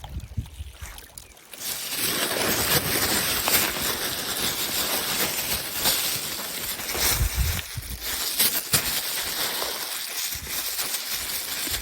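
Water sloshing and lapping: a steady rushing noise that starts abruptly about a second and a half in, with a few small clicks over it.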